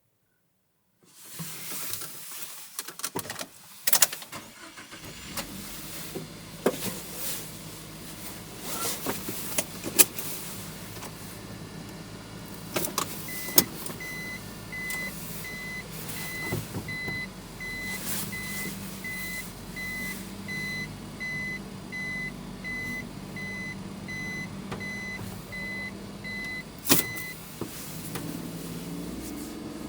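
Mini-truck cab sounds: clicks and knocks over a steady low engine hum, with a warning chime beeping about twice a second for some thirteen seconds until it stops with a click.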